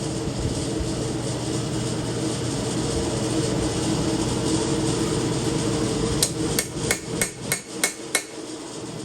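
Hand hammer striking steel on an anvil: seven quick ringing blows about three a second, over a steady background roar.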